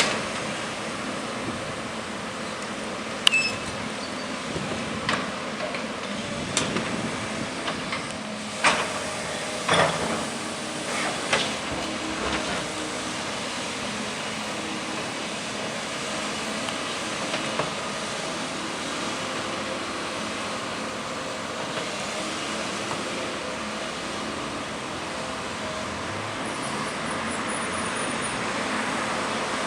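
New Holland E265B crawler excavator's diesel engine running steadily while it loads a truck, with a string of sharp bangs and clanks in the first dozen seconds as the load is dropped into the truck.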